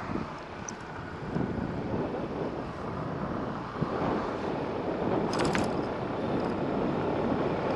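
Motorcycle running along a road, its engine and tyre noise mixed with wind on the microphone, slowly getting louder.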